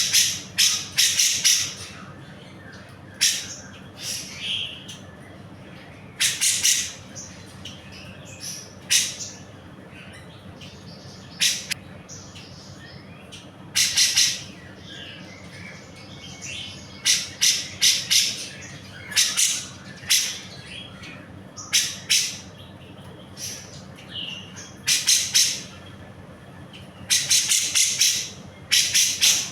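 A cucak jenggot bulbul calling loudly and harshly, in quick runs of two to five rasping notes with pauses of one to a few seconds between runs.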